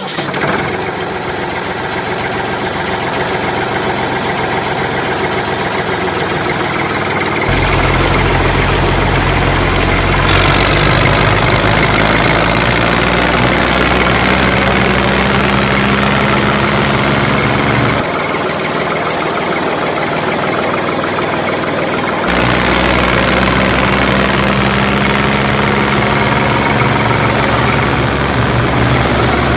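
An engine running steadily with a knocking idle, like a tractor diesel, its pitch and loudness changing abruptly several times along the way.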